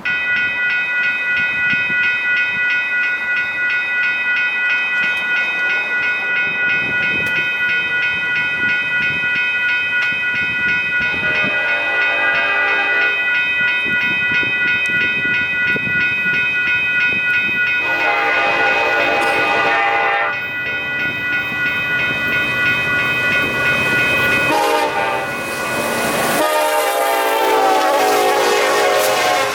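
Railroad crossing's WCH Type 1.5 electronic bell ringing steadily. Over it, the Union Pacific locomotive's horn sounds four blasts, long, long, short, long: the grade-crossing signal of a train approaching. Train rumble runs underneath.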